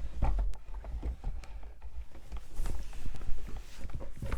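A string of irregular knocks and taps over a low rumble.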